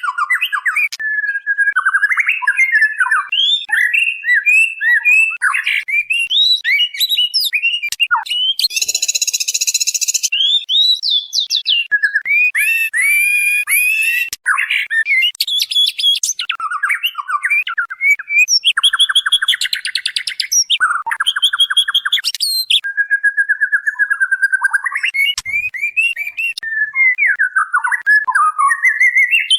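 White-rumped shama (murai batu) singing a continuous, varied stream of quick whistled phrases, broken several times by harsh, buzzy rattles. This is the female's call to a male, played as a lure to draw a response from male birds.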